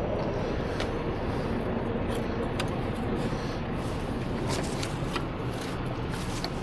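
Diesel engine running steadily, with a few light clicks and knocks over it.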